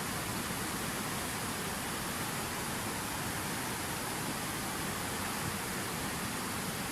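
Water falling steadily from a fountain waterfall: an even, unbroken rushing splash.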